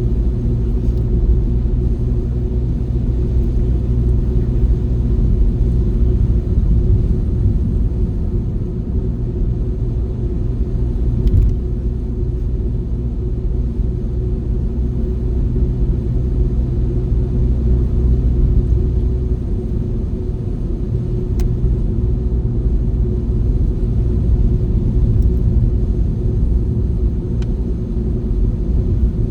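Steady low rumble of a car driving, heard from inside the cabin, with one brief knock about eleven seconds in.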